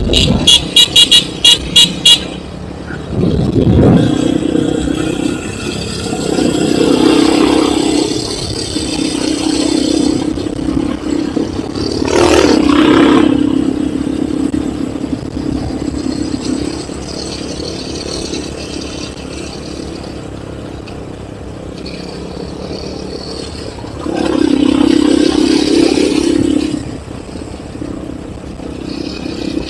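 Enduro motorcycle engine running while riding, swelling and easing with the throttle, with a rev rising about twelve seconds in and a louder stretch near the end. A quick run of sharp clicks comes in the first two seconds.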